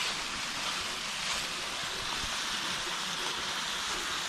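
Small waterfall splashing steadily into a creek, a constant rush of falling water.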